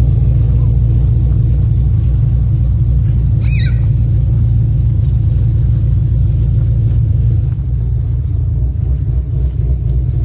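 A 1971 Chevelle's swapped LSA supercharged V8 idling with a deep, steady rumble as the car creeps slowly along under engine power alone. It eases off slightly about seven and a half seconds in as the car pulls away, and a brief high chirp sounds about three and a half seconds in.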